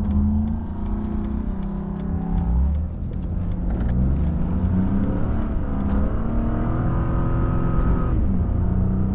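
Pickup truck engine accelerating through the gears, its pitch climbing and then dropping at an upshift about three seconds in and again near the end, over steady road noise.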